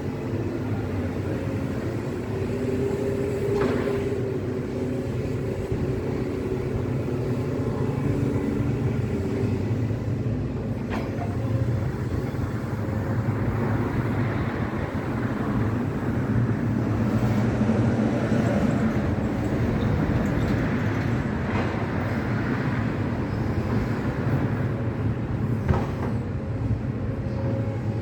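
Heavy demolition excavator working: a steady low diesel engine drone with a wavering hydraulic whine, and a few sharp knocks scattered through.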